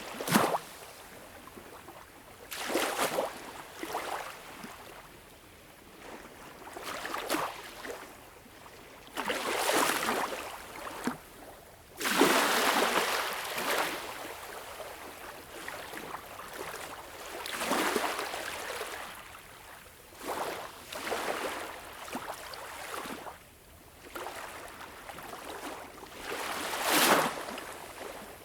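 Small waves lapping at a beach shore, each breaking in a soft rush of wash every few seconds, the longest about twelve seconds in.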